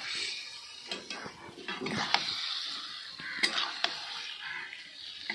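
Chicken pieces sizzling as they fry in spiced onion masala, stirred with a spoon that scrapes and knocks against the pot, with several sharp clinks.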